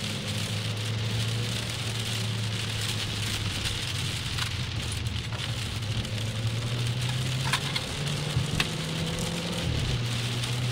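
Heavy rain pattering on a car's windscreen, heard from inside the cabin, over a steady engine drone. The engine note steps up twice and drops back again near the end.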